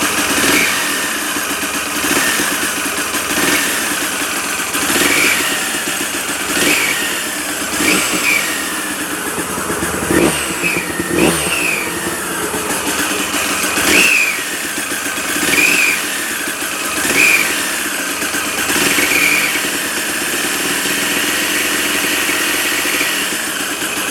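Kawasaki KDX220SR's single-cylinder two-stroke engine running and blipped again and again, a short rise in revs every second or two, with a brief high note on each rev. This is the abnormal noise caused by a clogged oil pump that was not feeding two-stroke oil into the engine.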